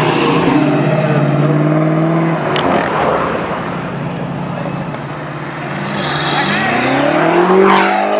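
A supercar's engine and exhaust running loud, holding a steady note for about two seconds. Near the end it revs up with a sharply rising pitch as the car accelerates away.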